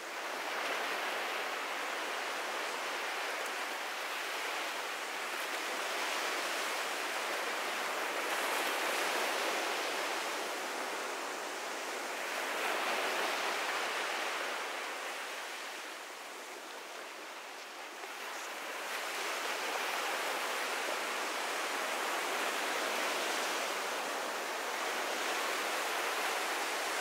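Ocean surf breaking on a beach: a steady rush of waves that swells and eases every few seconds, with a quieter lull a little past halfway.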